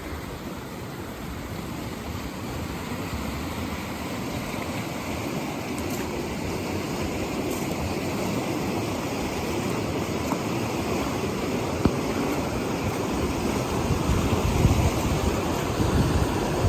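Swollen creek rushing in flood after heavy rain, a steady noise of running water that grows slowly louder toward the end. The creek is running far above its usual level, freshly eating away its bank.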